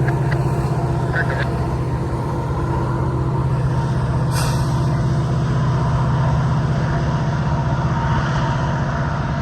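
Long manifest freight train rolling past, a steady heavy rumble of wheels on rail with a low hum and a few held ringing tones. A short sharp hiss or clank cuts through about four and a half seconds in.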